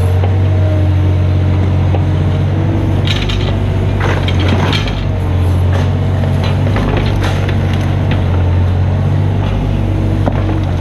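Mini excavator's diesel engine running steadily, with a run of knocks and scrapes about three to five seconds in and again around seven seconds, as the machine works.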